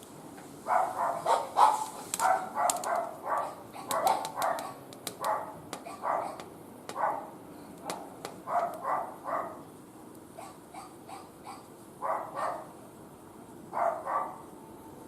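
A dog barking over and over in quick runs, with a few more barks near the end, over small crackles from the wood fire.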